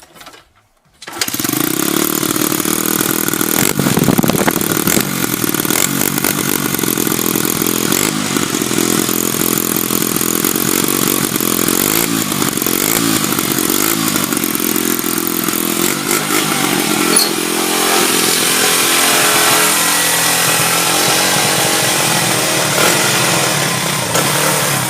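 Dirt bike engine running and revving up and down, cutting in suddenly about a second in.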